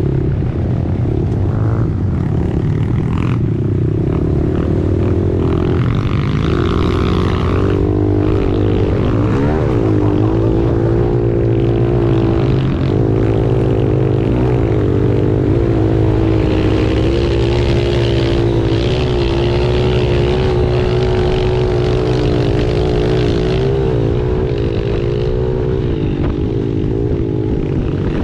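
Pit bike engine running as the bike is ridden, its pitch rising and falling with the throttle.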